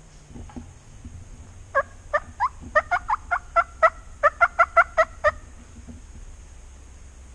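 A wild turkey gives a quick series of about fifteen yelps. Each note slides down in pitch, with a short break about two-thirds of the way through.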